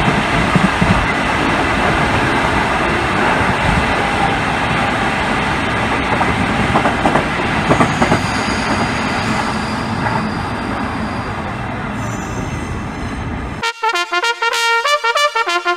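Running noise of a train heard from an open-sided carriage, with a second train passing close alongside on the next track. Near the end it cuts off suddenly into a short, punchy brass music jingle.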